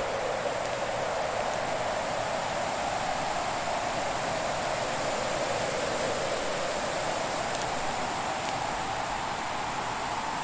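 Fire burning in a fireplace: a steady rushing hiss whose pitch drifts slowly, with a few faint, sparse crackles.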